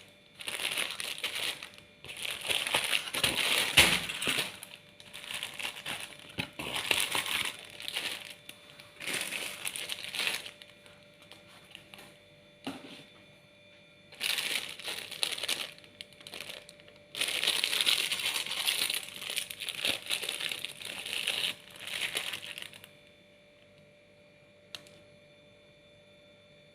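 Plastic snack wrapper crinkling and rustling as it is handled and opened, in repeated bouts with short pauses.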